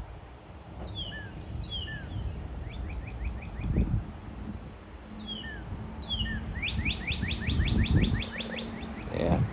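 Northern cardinal singing: pairs of clear down-slurred whistles, each followed by a fast run of short notes, the second run longer at about seven notes a second. Low rumbling underneath.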